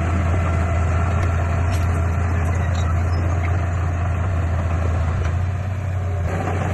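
Heavy diesel engine of earthmoving equipment running steadily under load, with a strong low drone. It eases slightly about five and a half seconds in, then picks up again.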